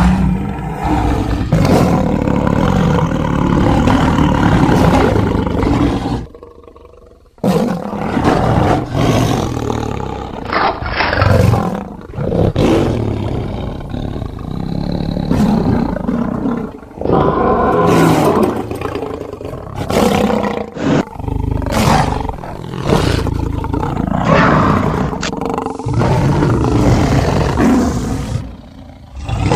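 Big-cat creature sound effect for a sabre-toothed lion, made from lion and tiger recordings: a run of loud roars and growls, one after another, with a short break about six seconds in.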